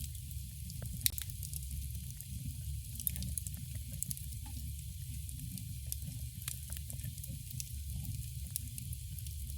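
Campfire crackling: a steady low rumble of burning wood with many small sharp pops and snaps scattered throughout, the loudest pop about a second in.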